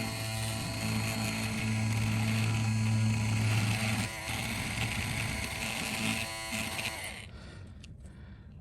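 Small electric motor tool buzzing with a steady low hum. The hum changes about four seconds in, and the tool cuts off about seven seconds in, leaving a few light clicks.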